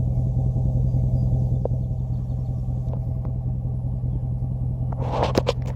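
Dodge Ram pickup's engine running with a steady low drone, heard from inside the cab while driving a rough mountain trail. A few sharp knocks and rattles come near the end.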